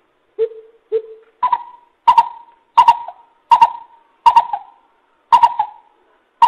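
Coucal calling a series of hooting notes: two lower hoots, then seven louder, higher hoots at an even pace of about one every 0.7 seconds, each with a short echoing tail.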